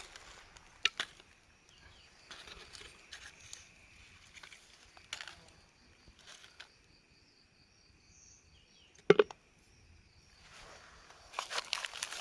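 Scattered rustling and crinkling of handling, with a sharp double snap about nine seconds in and louder crinkling starting near the end. A faint, steady high insect trill runs underneath.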